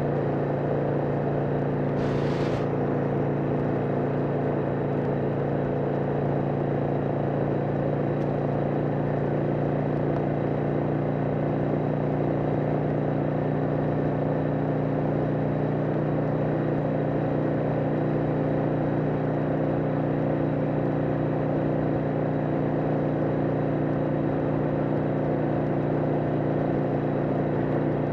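1991 Harley-Davidson XL883 Sportster's air-cooled V-twin running steadily at highway cruising speed, with wind rushing over the helmet-mounted microphone. A brief hiss about two seconds in.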